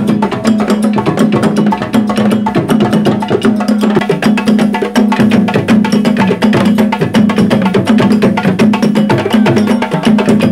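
Timbal percussion group drumming together: a dense, fast rhythm of hand-drum and stick strokes over a deep drum tone pulsing about twice a second.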